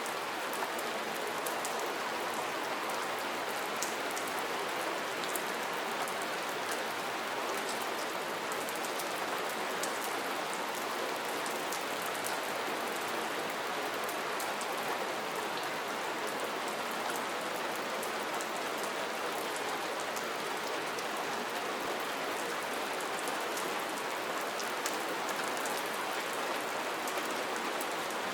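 Steady rain falling: an even, unbroken hiss with scattered small ticks of individual drops.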